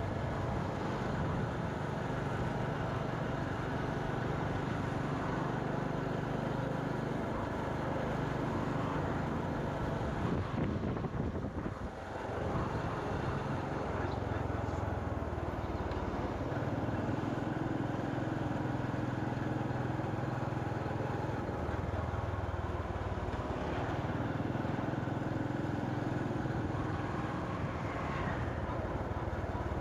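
Motorcycle engine running steadily on the move, with road and traffic noise around it. There is a brief unsettled patch and a short dip in loudness about eleven to twelve seconds in.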